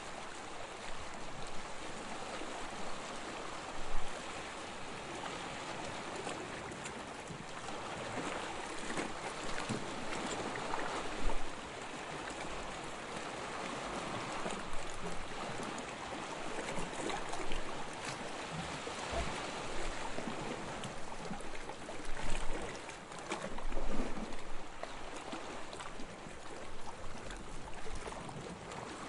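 Soft waves lapping on a sandy shore: a steady wash of water with a louder splash every few seconds.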